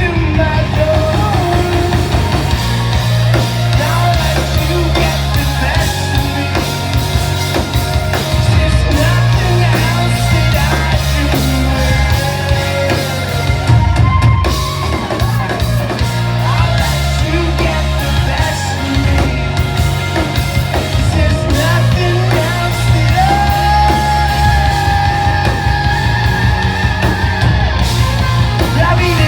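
Live rock band playing at full volume: distorted guitars, bass and busy drums, with a few held sung or lead notes over the top.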